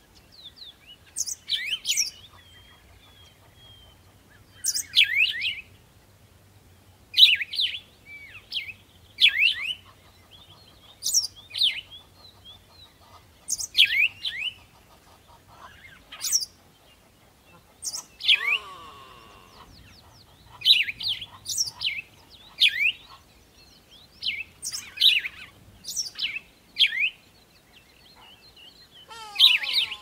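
Small bird chirping: bursts of two or three quick, high chirps that sweep sharply downward, repeating about every two seconds.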